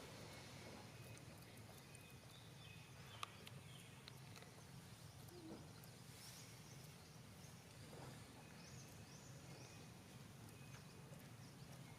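Faint, short high-pitched animal squeaks, with a group of quick rising ones about nine seconds in and a couple of soft clicks, over a quiet background hum.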